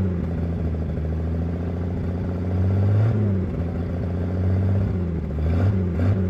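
1938 GMC truck's flathead six engine running, its revs rising briefly about three seconds in and again near the end.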